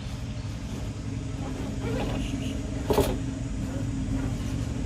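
Axial SCX10 II radio-controlled crawler truck running, a steady low drone with a sharp knock about three seconds in and a few softer clicks.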